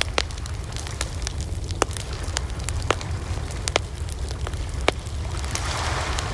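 Wood fire crackling, with sharp irregular pops and snaps over a steady low rumble, and a rushing swell of flame or wind near the end.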